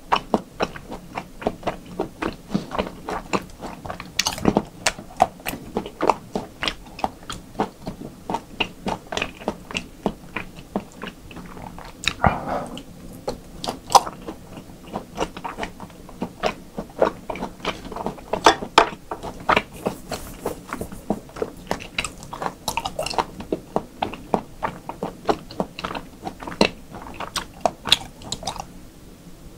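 Close-miked chewing of meat: a steady run of wet smacks and mouth clicks.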